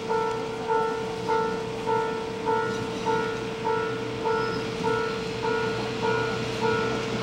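Japanese railway level-crossing warning bell ringing steadily, its two-tone strike repeating about one and a half to two times a second, over a steady low drone that may be the KiHa 185 diesel railcar's engine.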